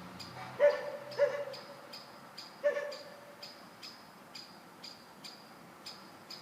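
A dog barking three times, short pitched barks about a second in, shortly after, and near the middle, over a steady faint ticking of about two ticks a second.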